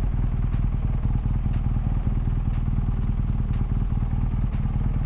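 Motorcycle engine running at a steady speed under way, with a constant hiss of road and wind noise over it.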